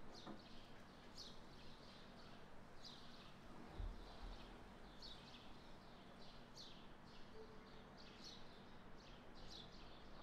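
Near silence with faint bird chirps: short calls that slide down in pitch, about two a second. A soft low thump about four seconds in.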